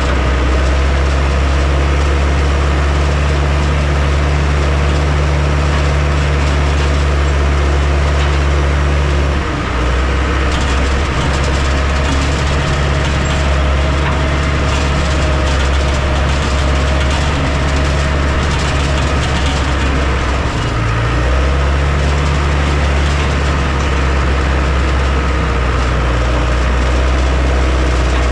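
Heavy construction machine's diesel engine running steadily with a loud low drone. Its note drops and changes briefly about a third of the way in and again about two-thirds in, as the load shifts.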